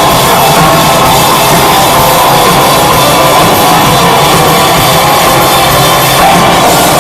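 Live folk-rock band playing a loud instrumental passage with drums, recorded from the audience.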